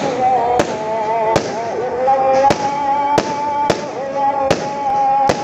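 Aerial fireworks bursting one after another, with about seven sharp bangs over five seconds at uneven intervals.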